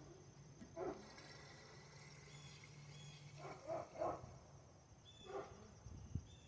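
A dog barking faintly, about five short barks, three of them in quick succession midway.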